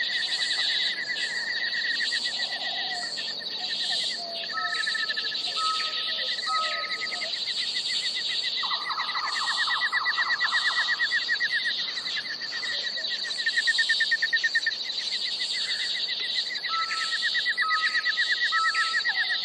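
Outdoor chorus of animal calls: a steady high buzz with rapid pulsing trills that come and go. Sets of three short whistled notes sound twice, and a louder pulsing trill comes in about nine seconds in.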